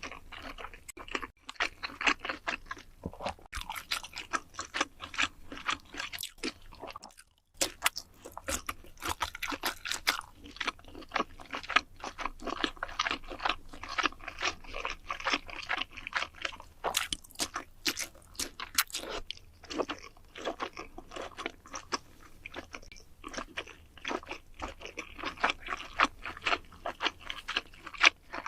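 A person chewing and crunching food close to the microphone, with many quick irregular crunches, breaking off for a moment about seven seconds in.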